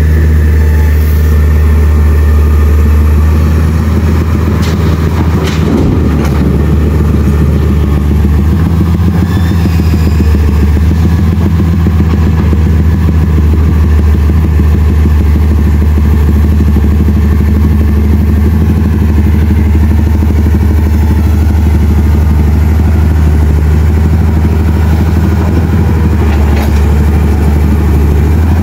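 A vehicle engine running steadily close by: a loud, even low drone that neither revs up nor dies away. A few short knocks come about five to six seconds in.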